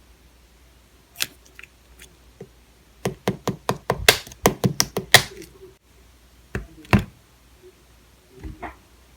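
Clear slime being squeezed and poked by hand, giving sharp clicking pops: a few scattered at first, then a quick run of about a dozen in the middle, then a couple more.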